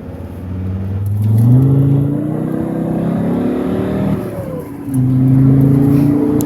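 Alfa Romeo Spider 2.4 JTDm five-cylinder turbodiesel, remapped, with its particulate filter removed and a free-flowing exhaust, accelerating hard, heard from inside the car. The engine note rises through the revs, drops briefly about four and a half seconds in at a gear change, then climbs again.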